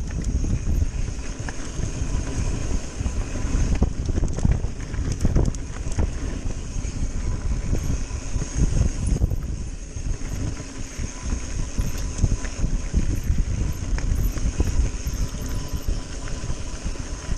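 Mountain bike riding down a rough trail: tyres rumbling over dirt and rock, the bike rattling and knocking, with wind buffeting the microphone.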